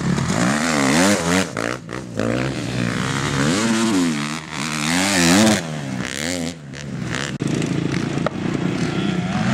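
Motocross dirt bike engine revving hard, its pitch rising and falling again and again as the throttle opens and closes, with a few short drops in between. It settles to a steadier, lower note near the end.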